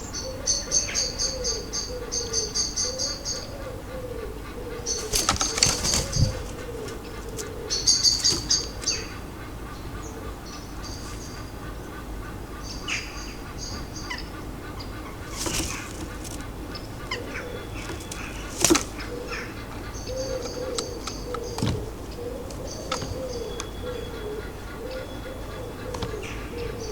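Small garden birds at a feeder giving high chirping calls in quick runs, again and again. Sharp flutters of wingbeats and clicks break in now and then, the loudest about six seconds in and again near nineteen seconds.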